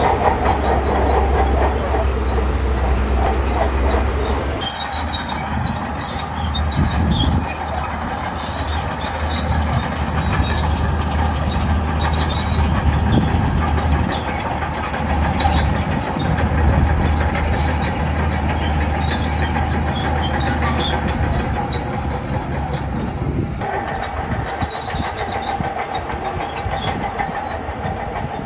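Shantui crawler bulldozer working: diesel engine running steadily under load while the steel tracks clatter and squeal. The sound shifts abruptly about five seconds in and again near the end.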